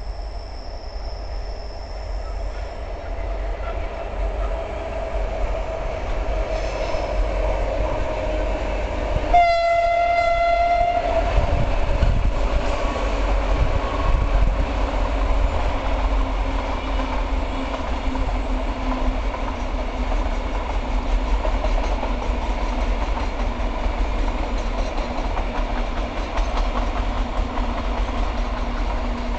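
Two QR National 2300 class diesel locomotives draw near and pass at the head of a freight train, sounding one horn blast of about a second and a half roughly ten seconds in. A long rake of container wagons then rolls by with a steady rumble and wheel clatter.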